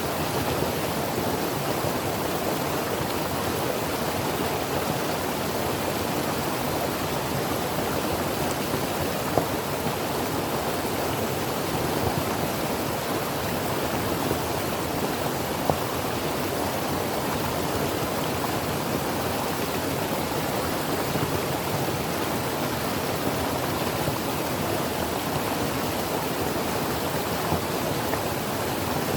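Creek water flowing over rocks, a steady rushing with a few faint splashes.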